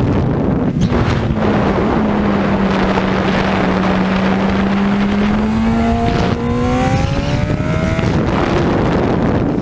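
Racing motorcycle engine under heavy wind noise on the microphone; its note sags a little, then climbs steadily from about halfway as the bike accelerates.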